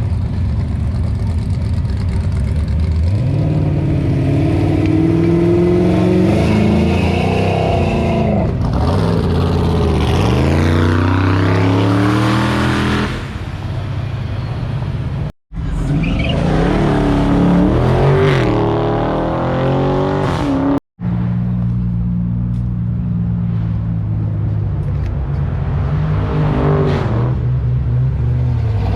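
Car engines revving and accelerating hard past, pitch climbing through the gears and then sweeping down as each car goes by. The sound is split by two sudden brief dropouts at edits.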